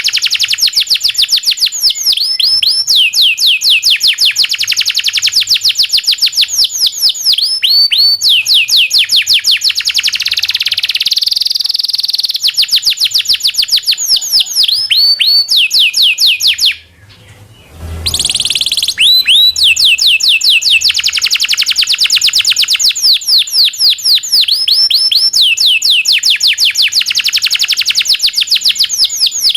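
Domestic canary singing long, fast rolls of repeated chirps, each note a quick downward sweep, phrase after phrase. The song breaks off briefly about seventeen seconds in.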